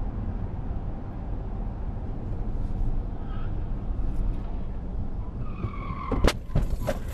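Steady low road and engine rumble of a moving car, then tyres squeal briefly about five and a half seconds in, followed by a few sharp bangs near the end.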